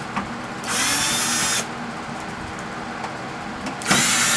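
Power drill run in two short bursts of about a second each, backing screws out of a microwave oven's sheet-metal casing.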